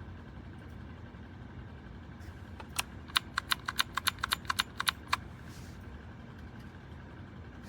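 Typing on a retro typewriter-style mechanical keyboard: a quick run of about a dozen key clicks about three seconds in, lasting around two seconds, over a steady low hum.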